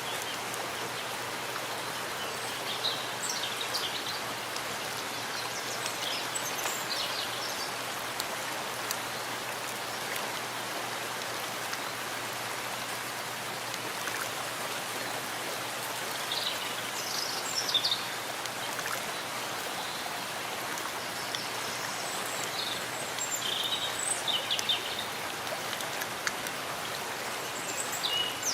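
Steady rain falling in a forest, an even hiss with patter. Short high chirps come and go over it a few times.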